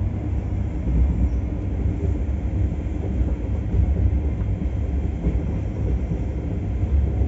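Steady low rumble of a moving Indian Railways passenger coach, heard from inside the coach near its door end: the wheels running on the rails.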